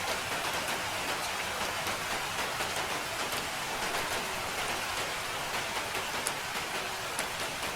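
Steady rain falling, a dense even hiss with scattered sharper ticks of single drops landing.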